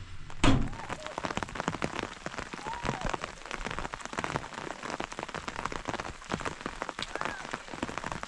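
Heavy rain falling, with dense drops pattering on a surface, and one loud thump about half a second in.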